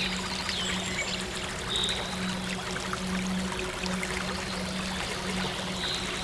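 Running stream water trickling and splashing, with short bird chirps now and then, over a soft, steady synth drone.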